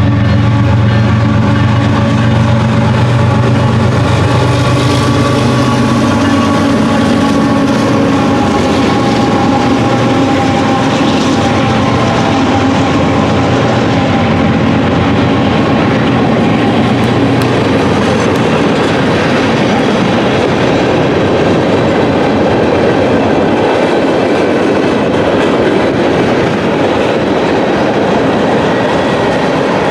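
A train passing close by: the locomotive's engine hum fades over the first few seconds, then the rail cars roll past in a steady, loud rumble.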